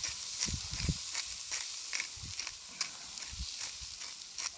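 Sugar snap peas with garlic sizzling in oil on a flat-top steel griddle, with a steady hiss and scattered crackles, plus a few low knocks in the first second.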